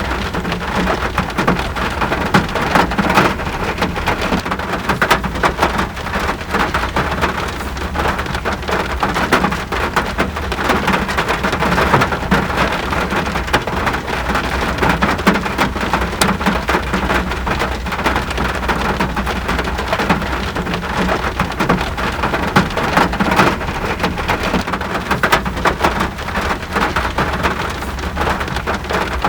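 Steady rain, with many individual drops striking a surface densely over a continuous hiss. A constant low rumble runs underneath.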